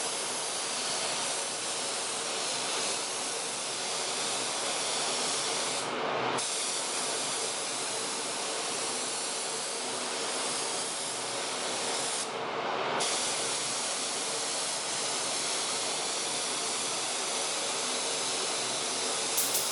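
Primer being sprayed: a steady hiss, let off briefly about six seconds in and again about twelve seconds in. A few quick clicks come near the end.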